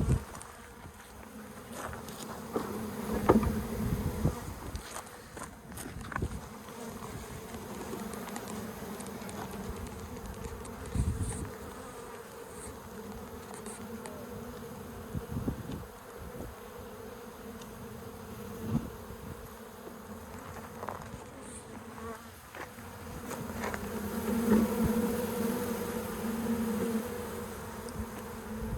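Honeybee colony buzzing steadily as its combs are cut out and moved, growing louder for a few seconds near the end. A few knocks of the combs and frames being handled.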